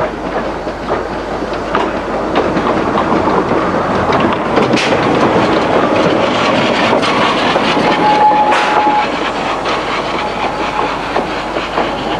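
Vale of Rheidol narrow-gauge train running along the line: a steady rattle and clatter of wheels and carriages, with scattered clicks and a brief thin high tone about eight seconds in.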